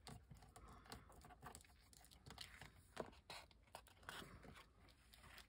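Near silence, with faint scattered paper rustles and light taps as cut paper pieces are handled and placed.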